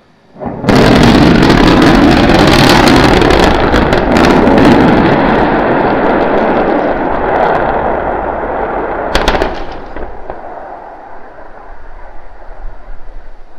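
Starship SN9 exploding as it crashes onto the landing pad: a sudden, very loud blast about half a second in, then a rumbling, crackling roar that slowly dies away, with a sharp crack about nine seconds in.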